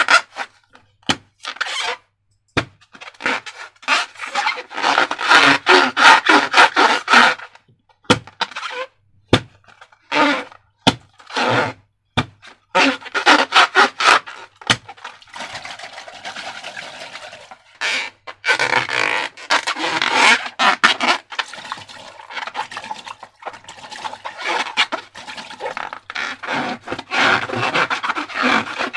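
Slime being squished and worked by hand against a rubber balloon: irregular sticky, crackling squelches in bursts, with sharp clicks and short pauses between.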